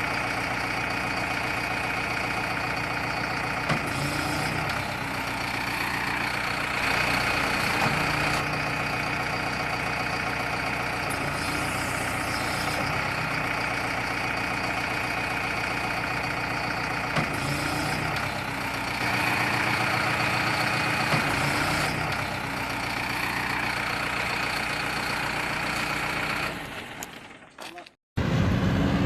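Steady vehicle engine running, rising and falling in pitch a little now and then, fading out near the end.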